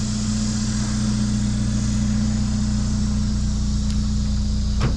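A vehicle engine running steadily with a constant low hum, and a short knock right at the end.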